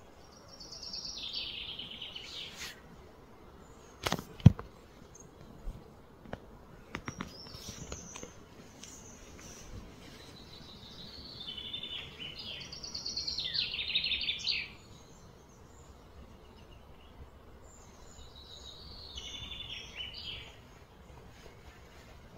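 A bird sings three times, each phrase a quick series of high notes falling in pitch and lasting two to three seconds, over steady outdoor background noise. A few sharp knocks come between the first two phrases, the loudest about four and a half seconds in.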